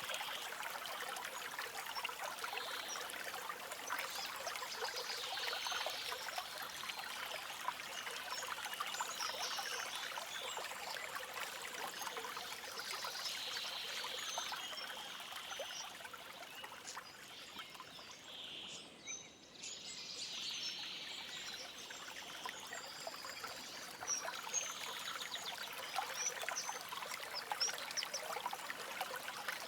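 A small stream trickling and splashing, the sound light and bright with little low rumble, while small birds chirp over it. It goes briefly quieter about two-thirds of the way through.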